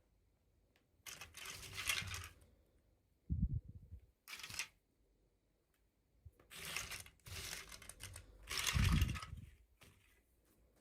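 Toy packaging being torn open and handled, in several bursts of rustling and ripping, with two dull thuds about three and nine seconds in.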